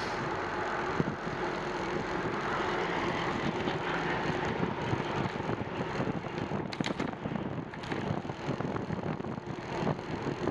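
Steady rushing noise of wind over the microphone and tyres on pavement from a bicycle being ridden, with a few faint clicks about two-thirds of the way through.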